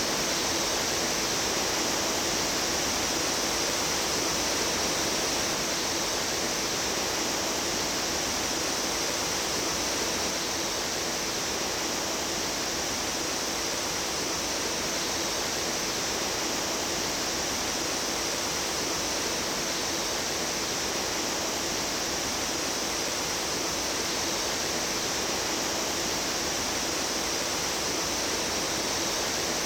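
Mountain stream water rushing steadily over rocks, an even, unbroken wash of sound.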